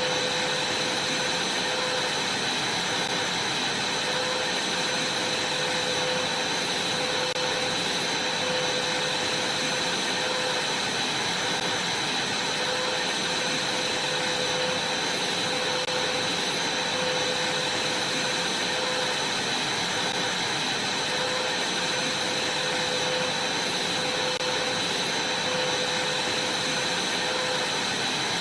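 Vacuum cleaner running steadily, a constant rushing noise with a high whine from its motor.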